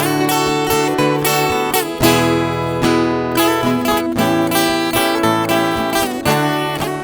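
Instrumental break in a sertanejo moda de viola song: steel-string acoustic guitars, likely including a viola caipira, strumming chords over a plucked bass line in a steady rhythm.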